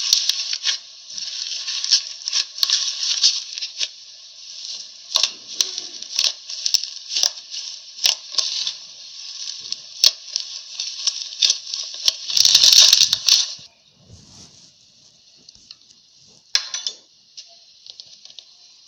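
Slime being poked and squeezed, giving off quick sticky clicks and crackling pops. A loud burst of crackling comes about twelve seconds in, then only faint scattered clicks.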